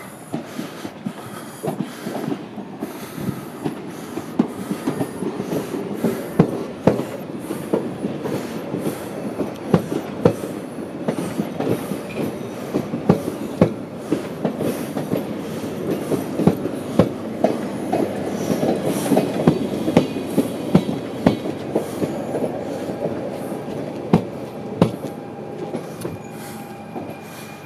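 A Stadler Flirt ED160 electric multiple unit pulls in along the platform, its wheels clicking rapidly over rail joints with a steady rolling rumble. The rumble is loudest about two-thirds of the way through and eases as the train slows to a stop, with a faint thin squeal near the end.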